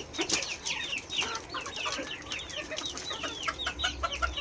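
A flock of young poultry chicks peeping: a steady stream of short, high, falling peeps, several a second.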